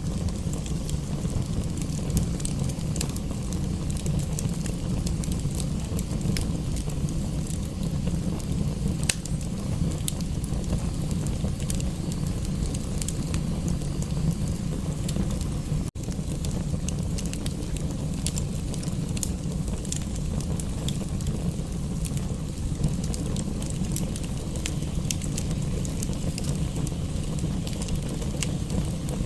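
Fireplace fire crackling, with scattered sharp pops over a steady low rumble, blended with rain. The sound cuts out for an instant about halfway through.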